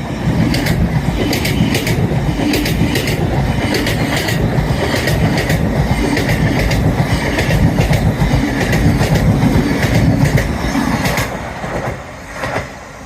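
LNER Azuma train running past on the track: a loud, steady rumble and rush with a regular clatter of wheels over rail joints. It dies away about twelve seconds in, with a last click near the end.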